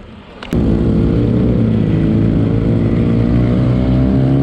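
A motorcycle engine starts about half a second in, with a click at the start, and then idles steadily and loudly close by.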